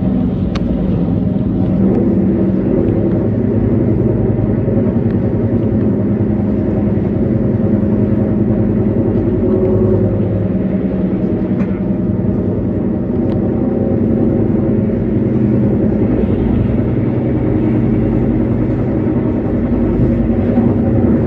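Steady running noise inside a moving passenger train carriage: a low rumble of the wheels on the rails with a steady hum of several tones, and a few faint clicks.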